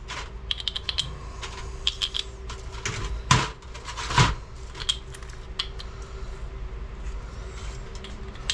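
Light metallic clicks and clinks of parts and tools being handled on an NP205 transfer case, with two louder knocks about a second apart near the middle.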